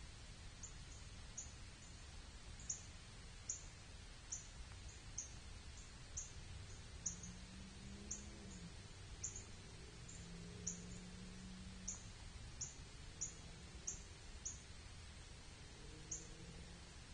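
Faint outdoor night ambience with a small bird's short, very high chirps repeating irregularly, about one or two a second, over a quiet hiss; a faint low hum rises and fades around the middle and again near the end.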